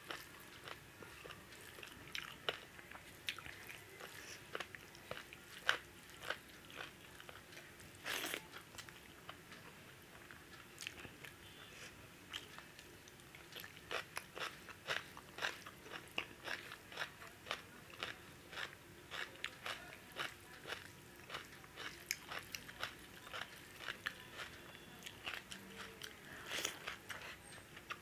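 Chewing and mouth sounds of a person eating rice and chicken curry by hand: a steady run of irregular short, sharp clicks.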